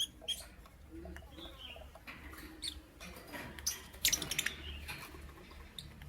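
Lovebirds chirping: scattered short, high chirps, then a quick run of squeaky chirps about four seconds in, the loudest part, over a low steady hum.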